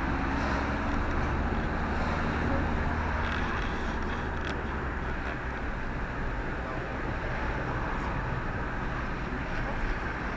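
Steady vehicle rumble and road noise, with a deep low hum and an even hiss.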